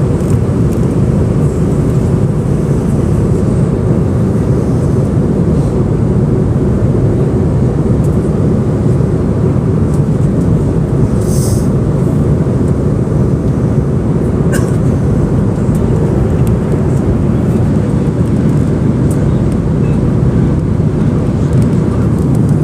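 Airliner cabin noise in flight: the steady low rumble of the jet engines and airflow. A brief high hiss about halfway through.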